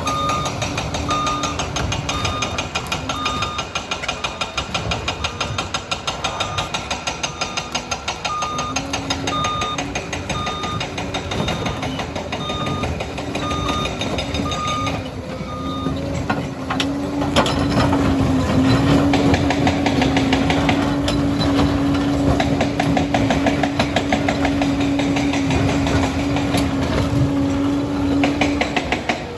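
Liebherr 746 crawler dozer's diesel engine running while its reversing alarm beeps about once a second. About halfway the alarm stops and the engine note rises and holds louder as the dozer works, with a steady clatter from the tracks.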